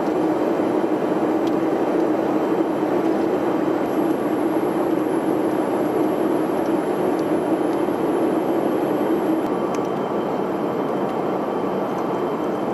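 Steady cabin noise of a Boeing E-3 Sentry in its climb: the drone of its four TF33 turbofan engines and airflow heard from inside the flight deck, an even noise with a constant low hum.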